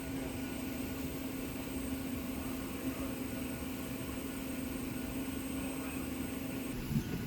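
Steady ventilation hum of a parked airliner's air-conditioning during boarding, with a low steady drone that cuts off near the end.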